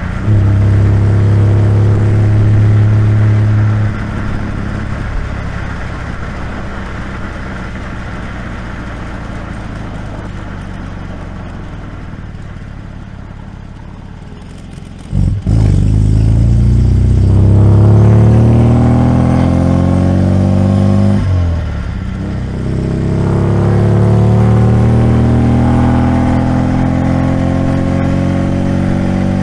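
The 1972 MGB GT's 1.8-litre four-cylinder engine and exhaust running on the road, heard from outside the car beside the door. It is loud for the first few seconds, then quieter as the car eases off, and from about halfway through it accelerates twice, the engine note climbing steadily each time, with a drop between the two climbs.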